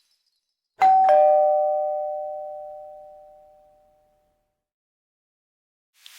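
Two-tone doorbell chime, ding-dong: a higher note struck, then a lower note about a third of a second later, both ringing and fading out over about three seconds.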